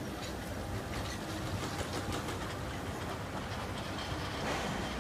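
TGV Duplex double-deck high-speed train rolling slowly past along the platform: a steady rumble with irregular clicks of the wheels over rail joints.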